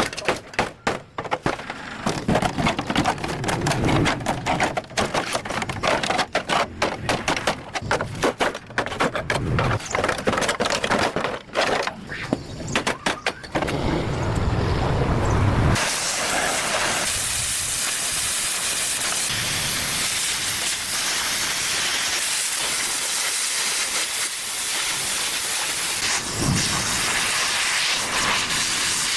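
Rapid, irregular crackling and knocking for the first half. About sixteen seconds in, a steady, loud hiss takes over and holds.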